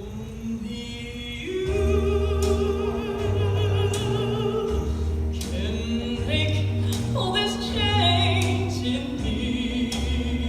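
A song: a singer holding notes with vibrato over an accompaniment with a steady bass line.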